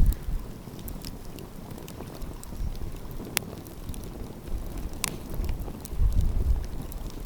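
Wood fire crackling, with a few sharp pops, the clearest about three and five seconds in. Low wind gusts buffet the microphone, swelling near the end.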